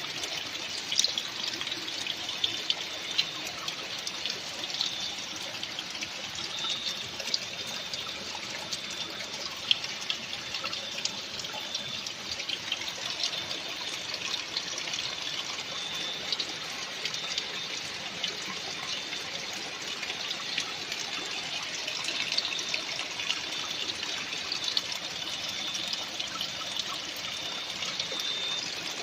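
Steady rush of running water, with scattered splashes and short high-pitched chirps now and then.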